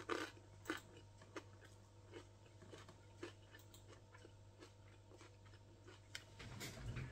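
Faint chewing of a person eating rice and fried fish, with soft irregular clicks every half second or so over a low steady hum.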